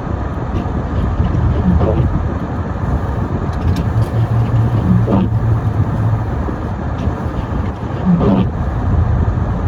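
Car driving on a snowy road: a steady low rumble of engine and tyres, with a short falling tone about every three seconds, near the start, in the middle and near the end.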